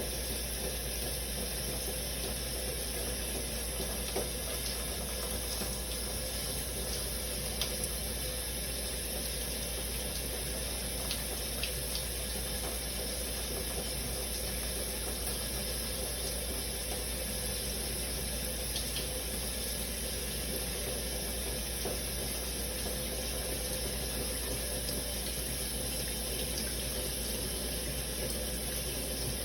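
Shower running steadily, water spray falling without a break, with a few faint ticks of drops here and there.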